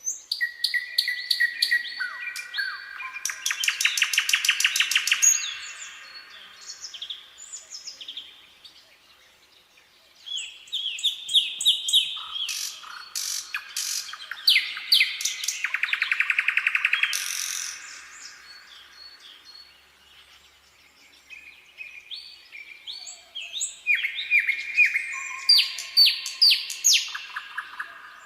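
Nightingale singing: three long song phrases of varied whistles, chirps and fast rattling trills, separated by short pauses.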